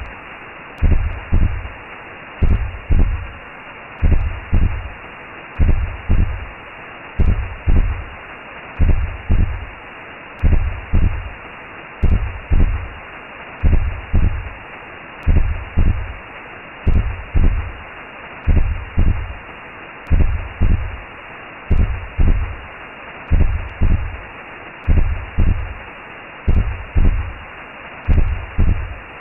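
Recreated womb sound: a steady whooshing hiss with a slow heartbeat, a low double thump repeating about every second and a half.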